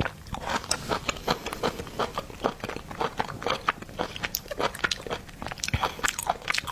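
Close-up chewing and biting of seafood: a dense run of wet clicks, crunches and crackles from the mouth, irregular and continuous.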